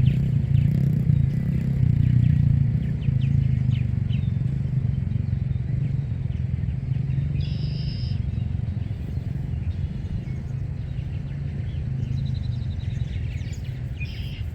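Steady low engine rumble from an unseen motor vehicle or boat, slowly fading away, with a short high bird call about halfway through.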